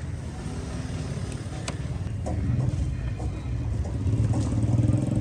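A motor vehicle engine running close by, a low rumble that grows louder over the last few seconds, with a few sharp clicks.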